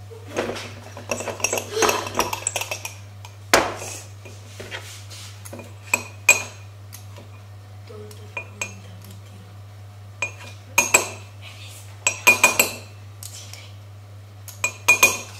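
A spoon clinking and scraping against a mug in several clusters of sharp strikes with brief ringing, as ingredients are spooned in. A steady low hum runs underneath.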